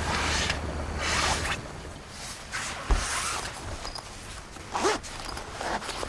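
A zipper pulled in several short rasping strokes, with one dull knock about three seconds in.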